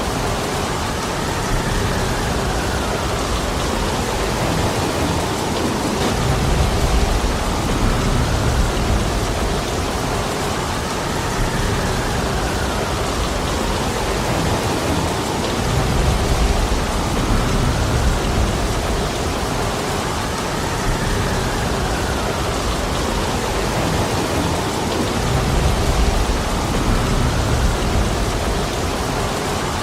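Heavy rain falling steadily as a dense hiss. Low rumbling swells rise and fall every several seconds.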